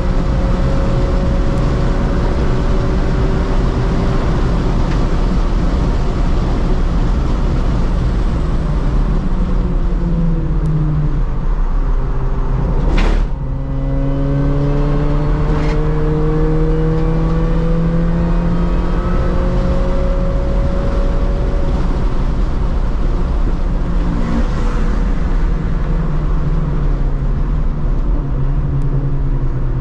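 R53 Mini Cooper S's supercharged four-cylinder engine driven hard, heard from inside the cabin. Its pitch sags, there is a sharp click with a brief drop in level about halfway in, and then the pitch climbs slowly for several seconds as the car pulls.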